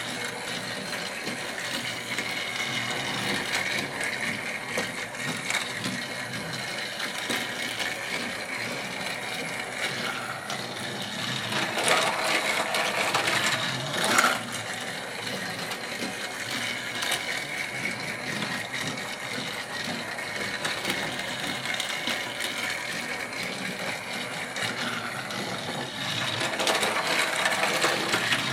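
Motorized Fisher-Price Trackmaster Thomas toy train running on plastic track, a steady gear whir and rattle that grows louder twice, about halfway through and near the end.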